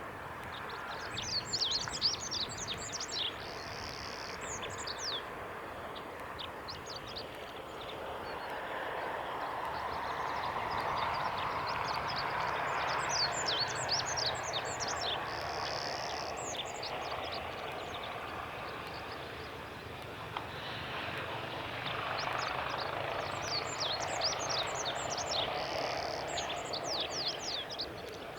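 Olive-backed pipit singing three phrases, each a rapid run of short high notes that ends in a brief buzzy trill. A steady background noise swells and fades beneath the song.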